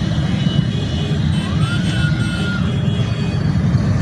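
Steady low rumble of a train running, with a brief tone near the middle that rises and then holds for about a second.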